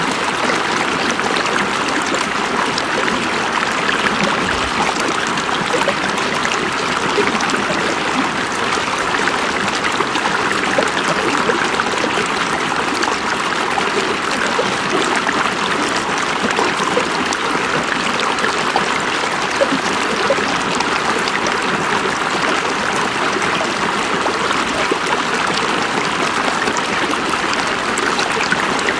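A river's water running steadily over rocks: an even rushing with small splashes and trickles throughout, and no change.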